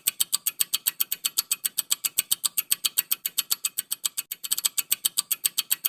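Countdown-timer ticking sound effect during a quiz answer pause: rapid, even ticks, about eight a second, briefly doubling up around four and a half seconds in.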